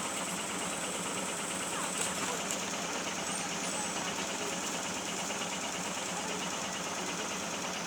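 ER2R electric multiple unit's steady running noise, with a constant high whine over it.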